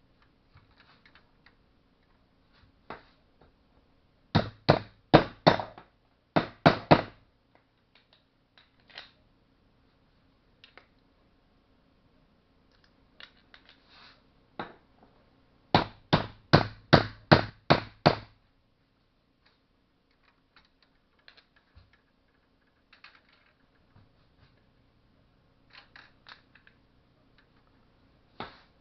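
Hammer blows driving a new bearing onto a Stihl MS-180 chainsaw crankshaft: a short run of sharp strikes about four seconds in, a longer quick run of about eight strikes near the middle, and light clicks of metal parts being handled in between.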